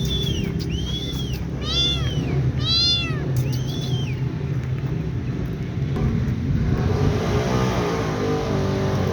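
A kitten meowing five times in the first four seconds, short high arched calls, over a steady low rumble. From about six seconds a motor vehicle's engine grows louder.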